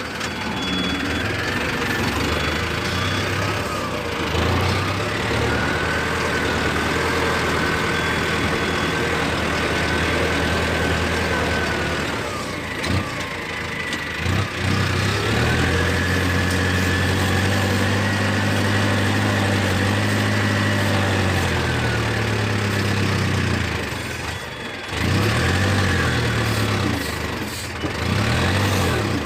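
Toy tractor's engine sound running steadily, with a thin high motor whine that rises and falls over it. The sound dips briefly about 12 seconds and 24 seconds in, then picks up again.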